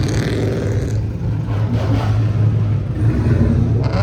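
Car engine and exhaust running loudly with a deep, steady rumble, with brief noisier bursts at the start and near the end.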